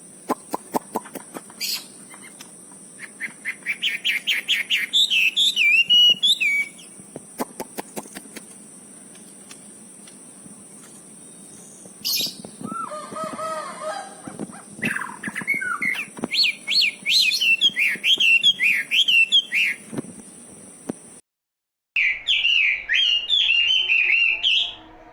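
Wambi (cililin) songbird singing in several bursts of fast, chattering, high notes with pauses between them. A run of sharp clicks sounds near the start, and a faint steady high whine runs underneath the song.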